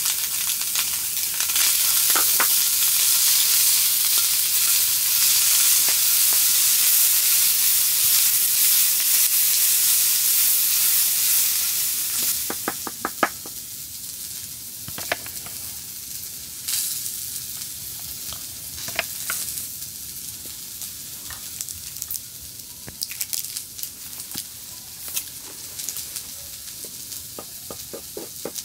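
Diced ham and onion sizzling and frying in a pan, with the clack of a wooden utensil stirring them. About twelve seconds in, the loud sizzle falls away, leaving scattered taps and scrapes of stirring.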